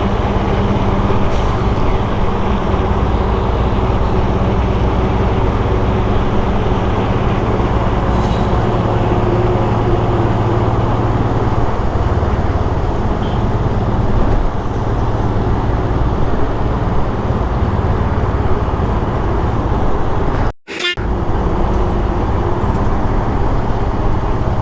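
Motorcycle engine running at low, steady revs while the bike creeps along in heavy road traffic, with a dense traffic noise around it. The sound cuts out briefly about twenty seconds in.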